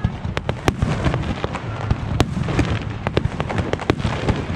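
Aerial fireworks display: a quick, irregular string of sharp bangs and crackling pops over a continuous low rumble of bursts.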